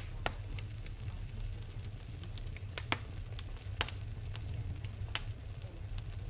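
Wood fire burning in a fireplace, crackling with scattered sharp pops over a low steady rumble.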